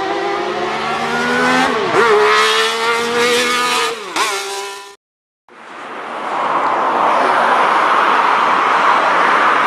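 Caterham Seven 160's 660 cc turbocharged inline three-cylinder engine revving hard under acceleration, dropping sharply twice as the driver lifts or shifts. After a brief cutout the engine note gives way to a steady rushing noise.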